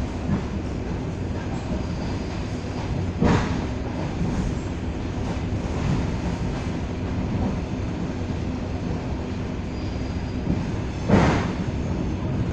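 Suburban electric train running, heard from inside the carriage: a steady rumble with sharp wheel knocks on the track, loudest about three seconds in and again near the end.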